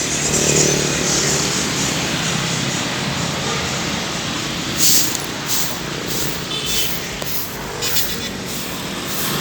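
Road traffic going by, joined in the second half by a run of short scraping strokes from a broom sweeping sand off the road.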